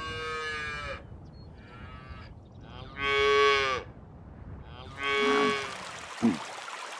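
Cattle mooing: four drawn-out calls of about a second each, the second faint and the third the loudest, each dropping in pitch at its end. Near the end the sound changes to a steady hiss of running water with one short low call.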